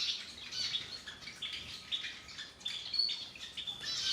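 A group of zebra finches in an aviary cage calling: many short, high chirps in quick succession, overlapping one another.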